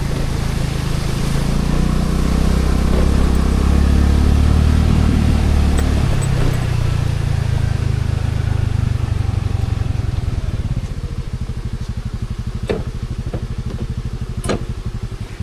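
Scooter engine running on the road; its note drops about six seconds in, and in the last few seconds it settles to a lower, evenly pulsing beat as the scooter slows, with two sharp clicks near the end.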